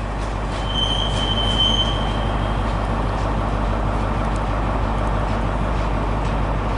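Class 142 Pacer diesel multiple unit pulling out, its underfloor diesel engines running steadily, with a high wheel squeal lasting about two seconds starting just under a second in.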